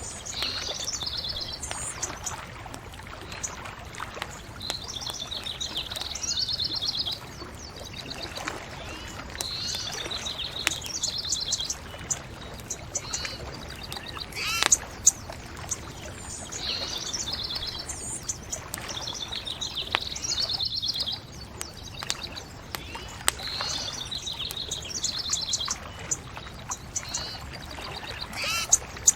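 A songbird singing short trilled phrases, repeated every few seconds, over a steady hiss, with occasional sharp crackles of a burning wood fire.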